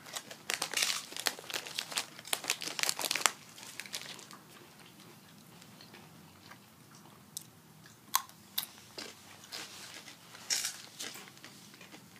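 Close crunching and chewing of tortilla chips, nachos being bitten and chewed with the mouth near the microphone. The crunches come thick and fast for the first three seconds or so, then turn sparser, with a few louder crunches later on.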